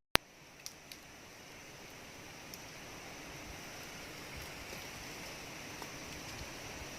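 A sharp click just after the start and two faint ticks, then a faint steady hiss of outdoor background noise that swells slightly.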